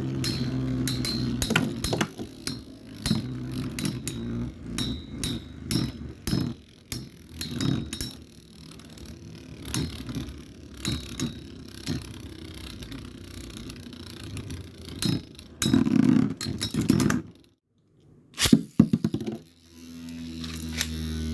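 Metal Fight Beyblade tops (Storm Pegasis 105RF and Dark Wolf DF145FS) spinning in a stadium, giving a low whir, with repeated sharp clacks as their metal wheels collide. Near the end the sound briefly drops out, then a steady low hum sets in.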